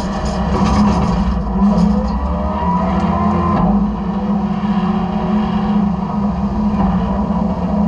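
Side-loader garbage truck running steadily, its engine and hydraulics giving a low hum. A faint whine rises in pitch from about two seconds in and breaks off at about three and a half seconds.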